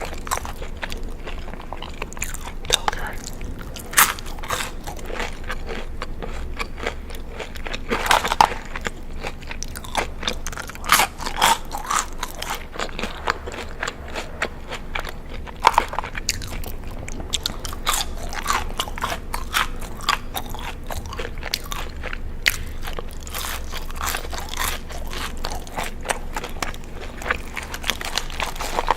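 Close-miked eating: crunchy bites and chewing of crisp food, with sharp, loud crunches scattered irregularly throughout.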